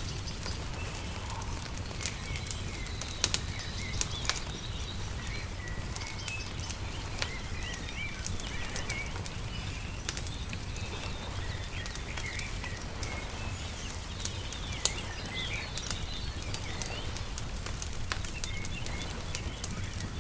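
Wood fire crackling, with frequent sharp irregular pops, over a steady low rumble. Small birds chirp throughout.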